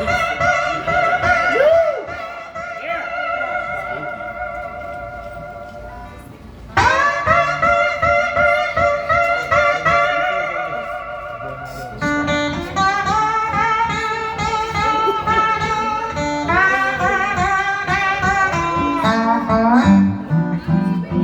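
Amplified blues guitar played solo: long sustained notes whose pitch wavers, with new phrases struck hard at the start and about seven seconds in. A lower accompanying line joins about twelve seconds in.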